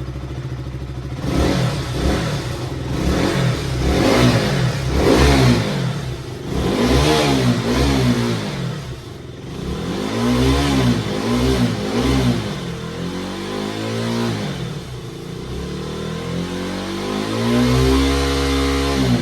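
KTM RC single-cylinder motorcycle engine through its stock exhaust, revved in a series of quick throttle blips. The note rises and falls about a dozen times, then is held high for a couple of seconds near the end before dropping back.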